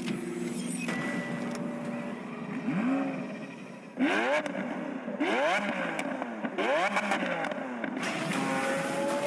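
Lamborghini Aventador V12 engine revved several times in quick succession, about four sharp blips rising and falling in pitch starting about four seconds in, after a steadier running hum.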